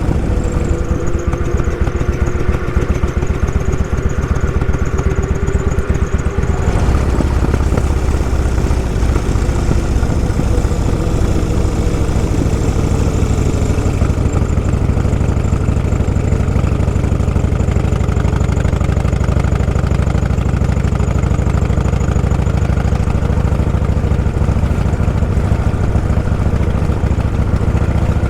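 Vehicle engine running steadily on the move, with a low droning tone throughout; the sound shifts about six and a half seconds in, when a higher whine drops away.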